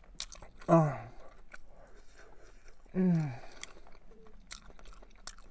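A person chewing a mouthful of sub sandwich, with small wet mouth clicks, and twice giving a closed-mouth "mmm" that falls in pitch: about a second in, the loudest sound, and again about three seconds in.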